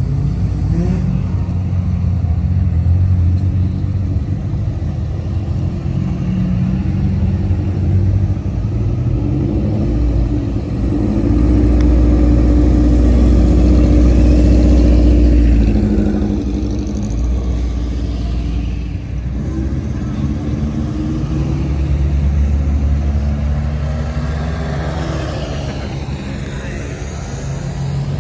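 Car engines running and revving at close range, loudest about halfway through, with people talking in the background.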